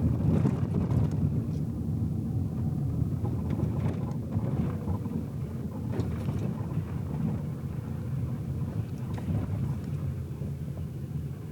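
Car driving, heard inside the cabin: a steady low rumble of road and engine noise, with a few faint light knocks.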